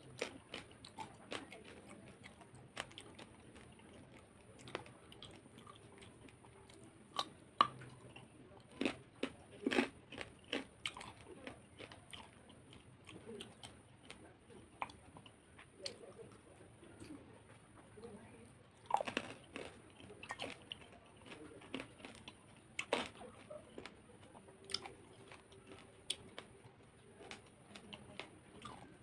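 Close-up chewing of a mouthful of spicy chicken-feet curry and rice, eaten by hand: irregular wet smacks and crunches. The louder crunches come in two bunches, about a third of the way in and again about two thirds of the way through.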